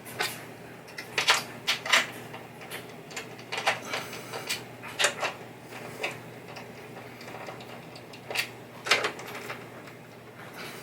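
Irregular clicks, clinks and knocks of hand tools and small metal parts being handled and set down as a pinball playfield's parts are removed, with a few sharper knocks scattered through.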